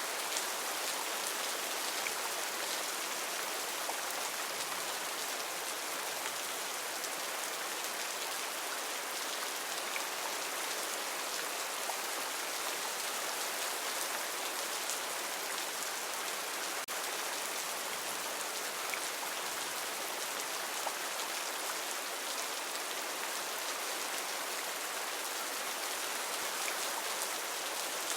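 Heavy rain falling steadily: a dense, even hiss with scattered single drops ticking through it.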